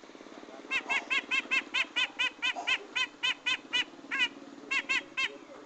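Grey-cheeked bulbul (cucak jenggot) giving a fast chattering call of short, arched notes, about five a second, with a brief break near the end. A faint steady low hum lies underneath.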